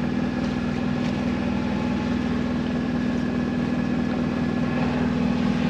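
Auxiliary engine of a 1965 Alberg 30 sailboat running at a steady speed under way, a constant drone.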